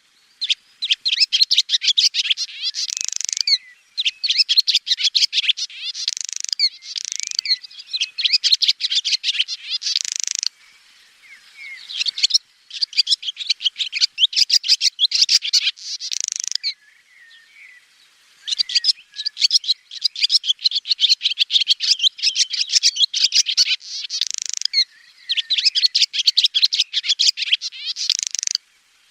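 Swallow singing: runs of rapid, chattering twitters a few seconds long with short pauses between them, several phrases ending in a brief, higher note.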